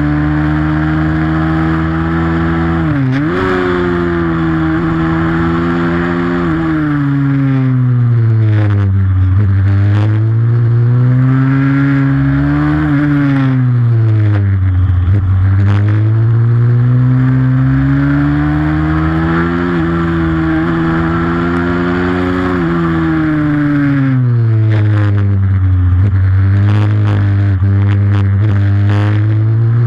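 Pit bike's single-cylinder engine racing around a track, revving hard and dropping in pitch each time it slows for a corner before climbing again as it accelerates, several times over.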